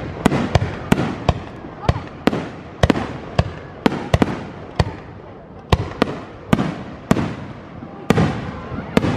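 Fireworks display: aerial shells bursting in a rapid, irregular series of sharp bangs, two or three a second, each trailing off in echo.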